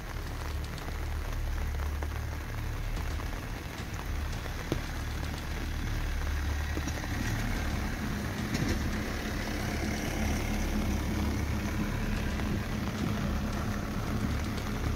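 Steady rain falling on standing water in a flooded field: a dense, even hiss with a low rumble underneath.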